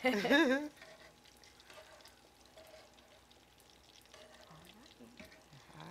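Breaded chicken breasts frying in oil in skillets, a faint steady sizzle with small crackles.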